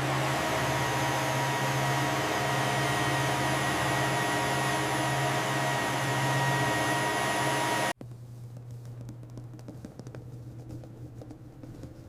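Steady machine running: a loud whooshing noise with a low hum and a few held tones. It cuts off suddenly about eight seconds in, leaving a much quieter hiss with faint crackles.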